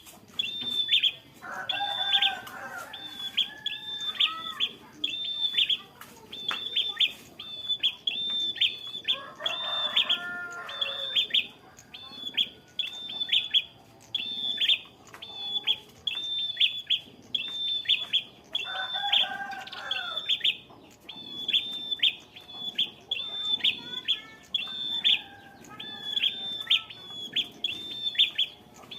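Prenjak kepala merah singing: short, hooked high notes repeated about twice a second without a break. Lower, chicken-like calls from another bird come in a few times.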